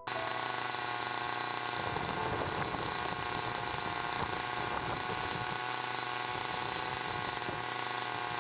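Helicopter engines and rotor running steadily, a constant mechanical din with a high turbine whine.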